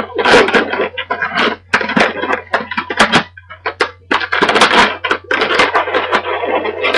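Latex twisting balloon being handled, folded and twisted by hand: irregular squeaks, creaks and rubbing crackles, over a steady low hum.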